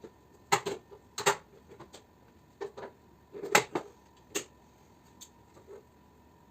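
Irregular sharp clicks and knocks of tools and metal parts being handled while a mini-split air conditioner is taken apart for scrap, loudest around the middle.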